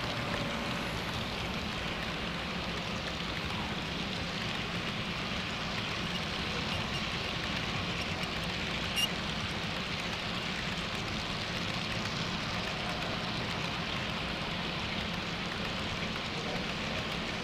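HO scale model train running along the track: a steady rolling rattle of wheels on rail over a low hum, with one sharp click about nine seconds in.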